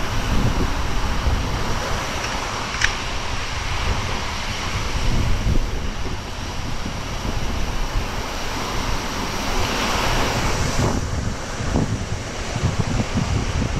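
Ocean surf washing onto a beach, with wind buffeting the microphone in a steady low rumble. A wave's wash swells up about ten seconds in and cuts off about a second later, and there is one brief click about three seconds in.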